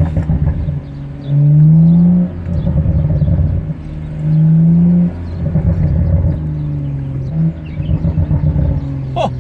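BMW 435i's turbocharged 3.0-litre straight-six through an iPE aftermarket exhaust in sport mode, revving up hard twice, pitch rising each time. Between the pulls the exhaust crackles and pops with a rapid, machine-gun-like rattle.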